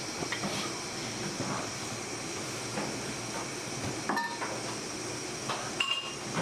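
Steady hum and hiss of workshop equipment with scattered light knocks, and two short metallic clinks that ring briefly about four and six seconds in.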